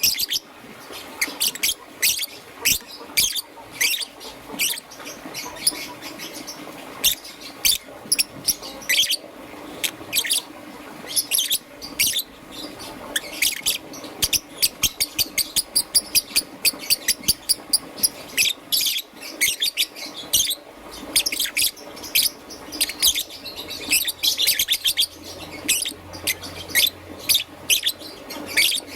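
Young peach-faced lovebird chirping: a long series of short, high, sharp chirps that come quickest in a rapid run in the middle.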